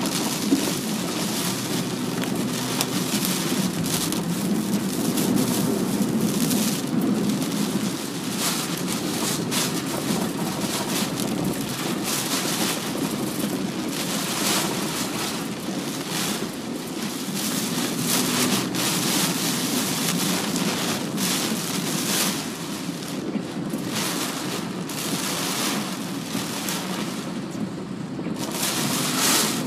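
Typhoon rain and wind lashing a moving car, heard from inside the cabin: a steady rush of wind and road noise with irregular gusts of rain pelting the body.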